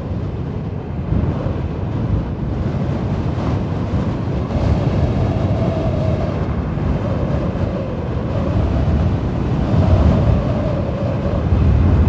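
A steady low rumble with wind buffeting the microphone, and a faint wavering tone that runs through the middle of the stretch.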